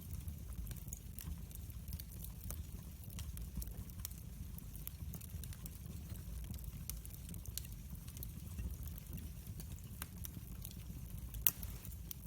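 A wood fire crackling in a fireplace: a steady low rumble of the burning fire with scattered sharp pops and snaps. One louder pop comes near the end.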